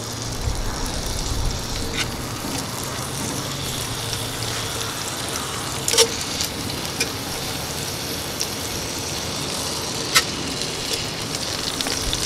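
Chicken thighs sizzling in melted butter in a cast iron Dutch oven, a steady frying hiss, with three sharp clinks of metal tongs against the pot as pieces go in skin side down.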